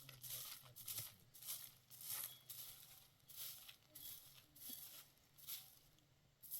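Faint rhythmic scraping strokes, one or two a second and a little uneven, over a faint steady low hum.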